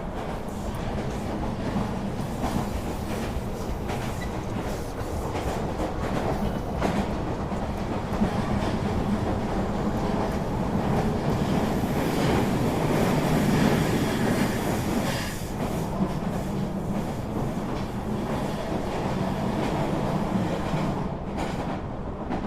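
Train running along the track: a steady rumble with the clatter of wheels over the rails. It swells louder about halfway through, then settles back.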